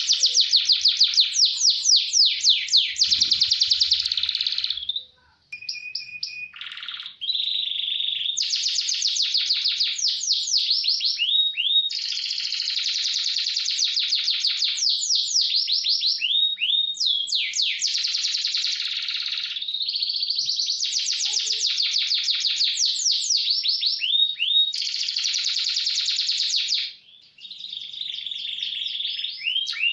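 Canary singing a long, fast song of rapid rolls and trills, high-pitched, with short runs of downward-slurred notes between the rolls and brief breaks about five seconds in and near the end.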